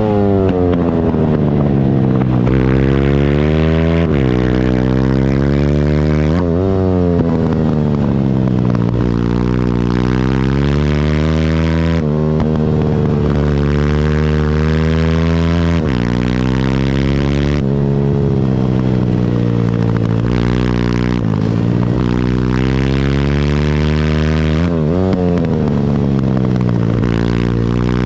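Pit bike's single-cylinder engine at racing speed, revving up hard and dropping back off throttle over and over as it accelerates out of corners and brakes into the next.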